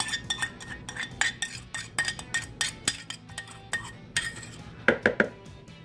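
A utensil clinking and scraping against a pan as melted jelly glaze is poured out: a rapid, uneven series of light clinks, with a few louder knocks near the end.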